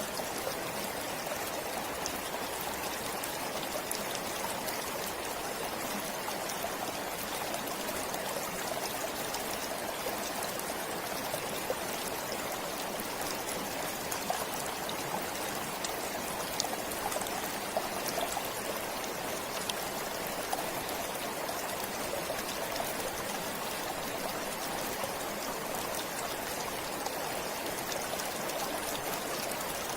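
Stream flowing steadily, with faint small splashes scattered through it.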